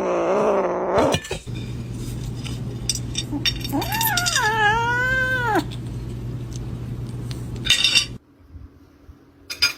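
A domestic cat gives one long meow about four seconds in, rising in pitch and then falling away, over a steady low hum.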